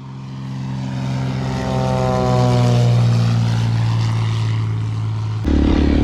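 Yamaha Ténéré motorcycle engine with a Coyote aftermarket exhaust, running at a steady pitch and fading in at the start. About five seconds in, the sound abruptly becomes louder and rougher, with a deeper rumble.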